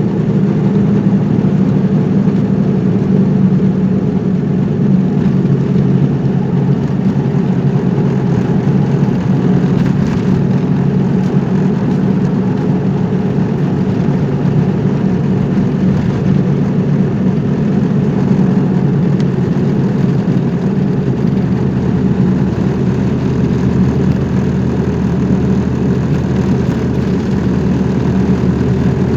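Car engine and tyre noise from a moving car, a steady drone that holds evenly throughout.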